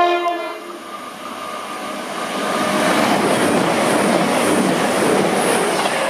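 CrossCountry Class 221 Super Voyager diesel multiple unit passing through a station at speed. The last of a short horn blast dies away about half a second in, then the rush of the passing train's wheels and engines builds to its loudest over a few seconds and begins to ease near the end.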